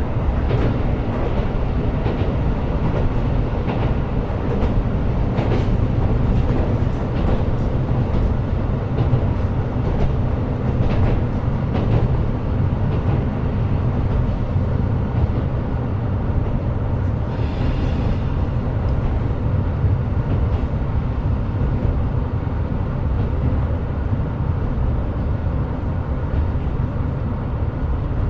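KiHa 125 diesel railcar running: a steady rumble of engine and wheels on rail, with scattered clicks from the track. A faint higher-pitched sound comes in for a second or two about two-thirds of the way through.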